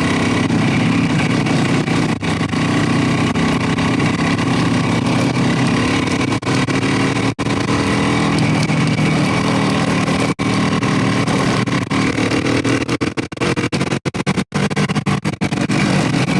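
Motorcycle engine running steadily under way, with wind noise. The sound cuts out briefly several times near the end.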